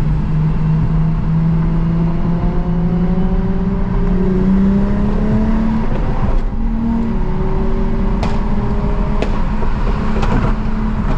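Car engine held at high revs, its pitch climbing slowly, dropping about six seconds in and climbing again. A few sharp cracks come in the second half.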